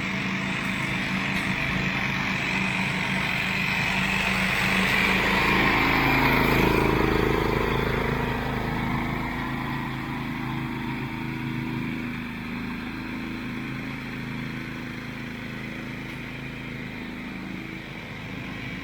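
Engine of a homemade zero-turn ride-on lawn mower running steadily as it drives and mows, swelling louder about six seconds in and then easing off.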